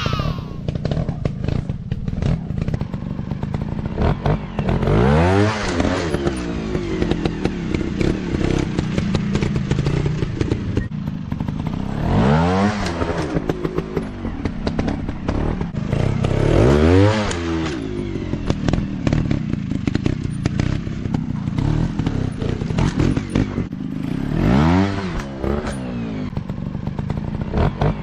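Dirt bike engines running, revving up and back down in pitch about five times, with steadier engine noise between the revs. Frequent knocks and clatter run through it.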